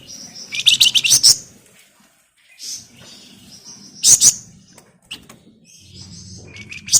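Flamboyan songbird singing in short bursts of fast, high, scratchy trills, three bursts with pauses between, the loudest about a second in.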